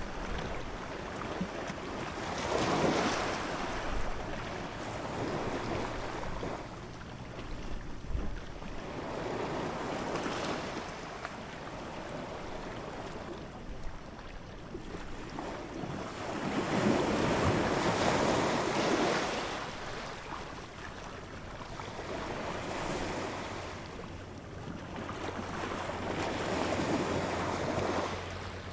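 Ocean waves breaking and washing up the shore. The surf swells and fades about every seven to eight seconds.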